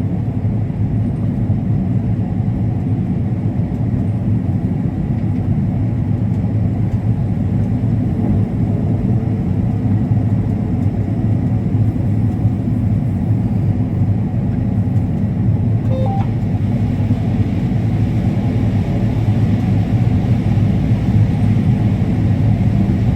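Combine harvester running steadily while harvesting corn, a continuous deep drone.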